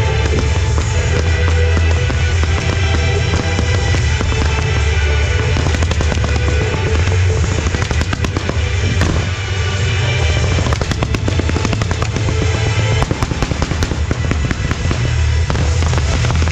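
Fireworks going off over music: a rapid, irregular run of cracks and bangs from aerial shells and fountain effects, with the music's steady bass underneath.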